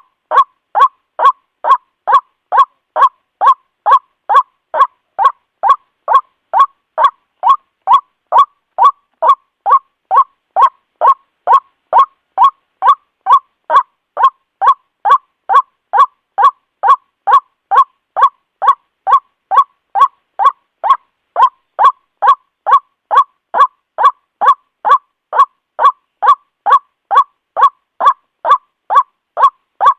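White-breasted waterhen calls played as a looped bird-trapping lure: a short call repeated at a perfectly even rhythm, about two a second.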